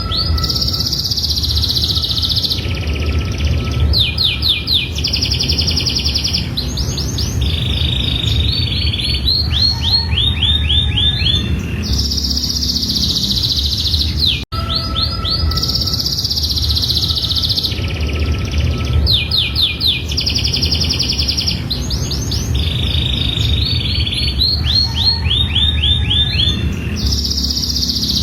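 Domestic canary singing a long song of fast rattling trills and held whistled notes. The same passage of about fifteen seconds plays twice, with a brief dropout at the join about halfway through, over a low background rumble.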